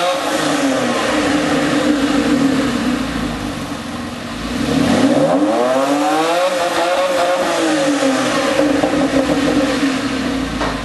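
Porsche 997 Carrera S 3.8-litre flat-six running through its Porsche Sport Exhaust. The engine note rises and falls twice, about five seconds apart, and holds a steady drone in between.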